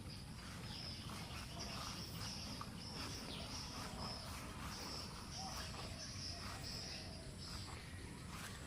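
Insects chirping outdoors in a steady pulsing rhythm, a high-pitched pulse about once a second, each lasting about half a second, over a low background rumble.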